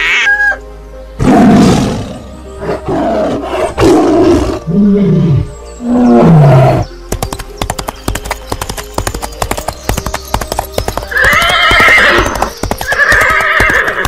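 A horse neighing and whinnying several times, with falling pitch, then a dense run of sharp clicks and two more calls near the end, over soft background music.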